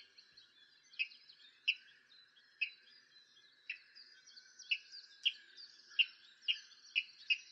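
Wild birds calling: short, sharp call notes repeated irregularly about once a second, coming faster near the end, over a fainter high twittering.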